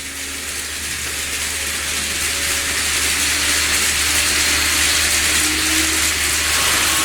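KATO model train running along the track, its wheels and motor making a steady rumbling hiss that grows louder as it comes closer, with a faint motor whine.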